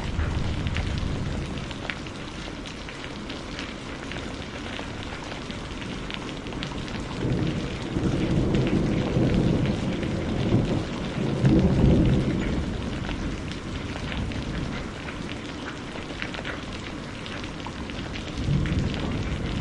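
Steady rainfall with individual drops pattering close by, and a low roll of thunder that builds about a third of the way in, peaks past the middle and dies away, with a smaller rumble near the end.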